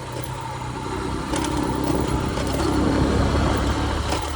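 Motorcycle engine running under way, its sound building up from about a second in and easing off near the end.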